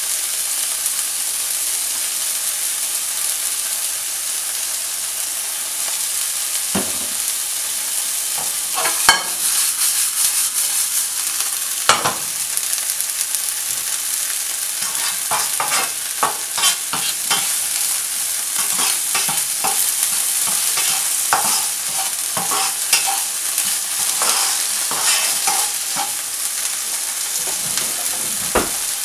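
Diced vegetables and meat sizzling steadily in oil in a nonstick frying pan. From about seven seconds in they are stirred, with irregular knocks and scrapes of the utensil on the pan that come more often in the second half.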